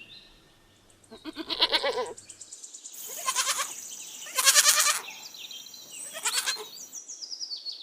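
Young goat (kid) bleating: four separate high, wavering calls spaced a second or so apart.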